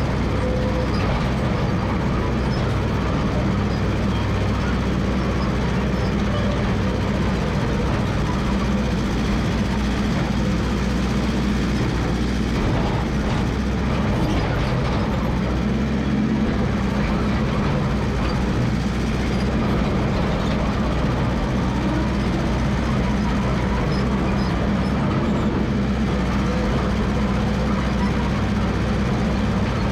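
Massey Ferguson 300 crawler dozer's engine running steadily.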